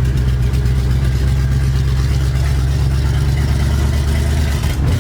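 A 1973 Dodge D100's 318 V8 engine running steadily while the truck drives, with a brief dip near the end.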